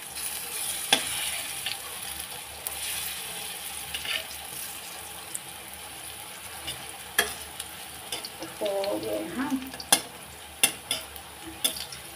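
Battered pumpkin slices frying in oil in a kadhai with a steady sizzle. A spatula clicks and scrapes against the pan several times as it turns the pieces.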